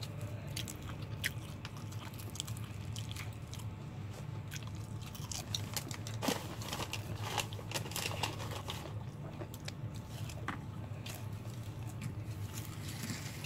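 Close-up chewing of KFC fried chicken, the crispy breading crunching and crackling with each bite, most densely about six to eight seconds in, over a steady low hum.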